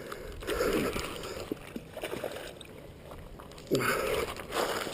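Two short, wordless vocal sounds from a man, each falling in pitch, about half a second in and again near four seconds in, over a steady background hiss.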